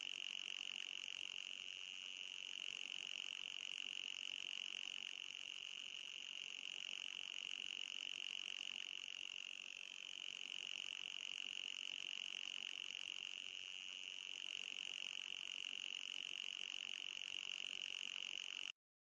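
Electronic anti-mosquito repellent tone: a steady high-pitched whine that cuts off suddenly near the end.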